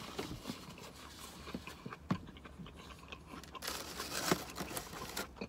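Close-up chewing of a mouthful of hot dog in a bun: scattered small clicks and smacks of the mouth, with a brief hiss about four seconds in.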